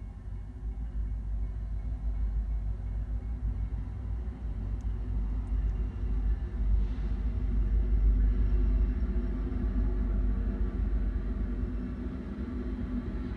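Diesel locomotives at the head of a BNSF coal train, rumbling as they approach and pass. The rumble grows louder to a peak a little past the middle, then eases slightly.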